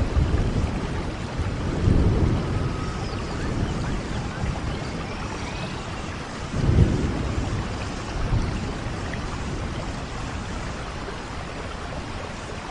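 Steady rain with low rolls of thunder, one about two seconds in and a louder one about seven seconds in.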